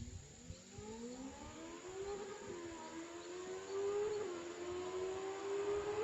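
Benelli TNT 600 inline-four with an SC-Project exhaust accelerating toward the listener. Its engine note rises in pitch, drops briefly twice as it shifts up, about two and a half and four seconds in, then keeps climbing and growing louder.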